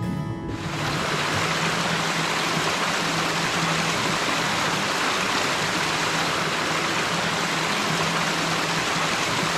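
Steady rushing of flowing water, like a stream, starting about half a second in as guitar music cuts off.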